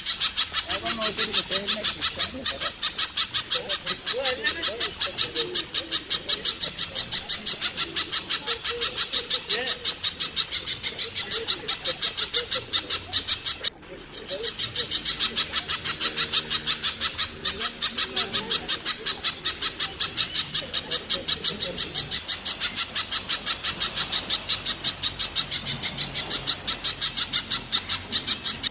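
A flock of birds calling, with irregular fowl-like calls over a loud, fast, evenly pulsing high-pitched chirring. The sound breaks off briefly about halfway, then carries on.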